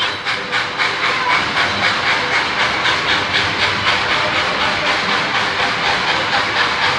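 Narrow-gauge steam train running, heard from the passenger cars: a steady steam hiss with a rapid, even rhythmic pulse of the locomotive and wheels.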